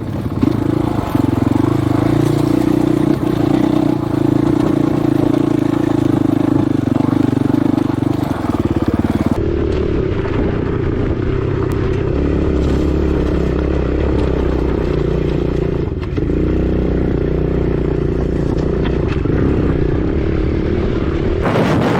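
Husqvarna 501 dirt bike's single-cylinder four-stroke engine running steadily under riding load. The engine note shifts lower about halfway through, then the revs dip briefly and pick back up near the three-quarter mark.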